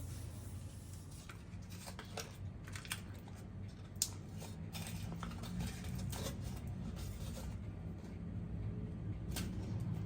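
Kitchen handling sounds: scattered light clicks and rustles over a steady low hum, with a sharp click about four seconds in and another near the end.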